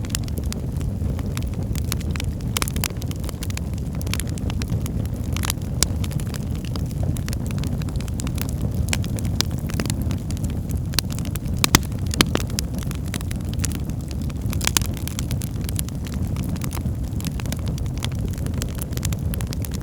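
Wood fire burning in a fireplace: a steady low rumble of flames with frequent crackles and pops, a few sharper snaps about twelve and fifteen seconds in.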